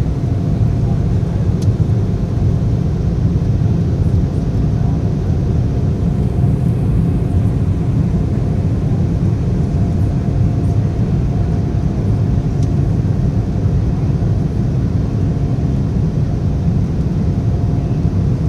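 Embraer 175 airliner in flight: the steady rumble of its twin turbofan engines and the airflow past the fuselage, with a faint steady hum.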